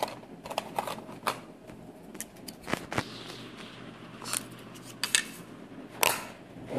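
Scattered light clicks and taps of clay moulds and tools being handled and set down on a table, with a few sharper clacks spread through.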